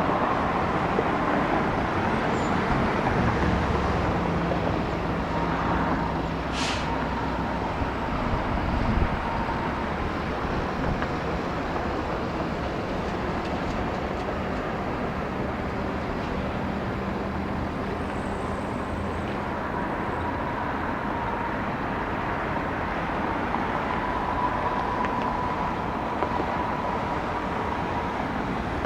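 Jet airliner engines running at an airport runway, a steady rush with a faint whine, a little louder in the first nine seconds.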